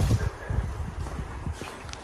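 Wind buffeting the microphone in a low rumble, strongest at the start and easing off within a moment, with a few faint ticks.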